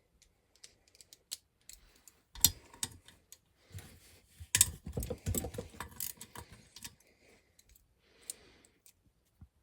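Hand tools clicking and clinking against the mower engine's crankcase bolts while they are undone, in scattered sharp clicks with two busier bursts of clatter around the middle.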